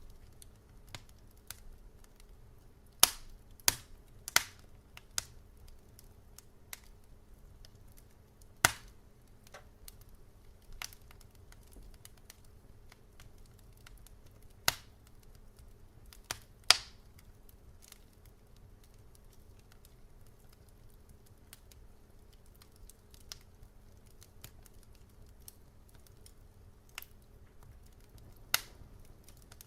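Wood fire crackling: irregular sharp pops and snaps, a few loud ones among many faint ticks, over a low steady hum.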